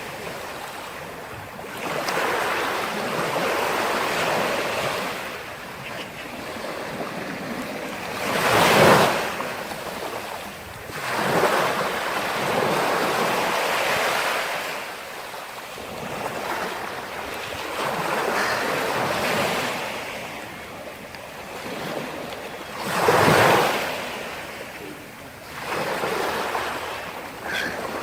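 Sea surf: waves breaking and washing on the shore, the sound swelling and fading every few seconds, with two bigger breakers, one about a third of the way in and one past three-quarters.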